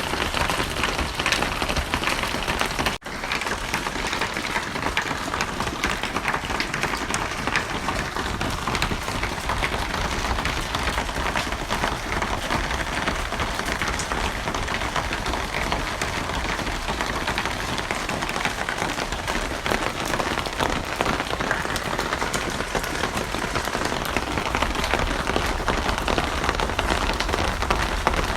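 Steady, heavy rain falling, a dense continuous patter of drops, with a brief gap in the sound about three seconds in.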